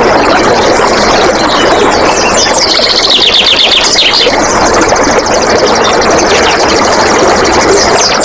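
Flowing water rushing, steady and loud, with a songbird singing a fast run of high, falling notes from about two and a half to four seconds in.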